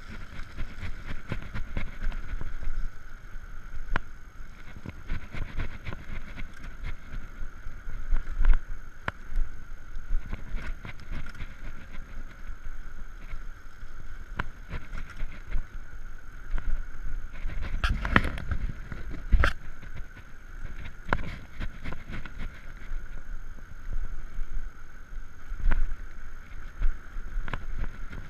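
Electric bicycle ridden under motor power, with wind buffeting the microphone and the bike rattling and knocking over the road surface, two louder knocks a little past halfway. A faint steady whine runs underneath from the quiet electric motor.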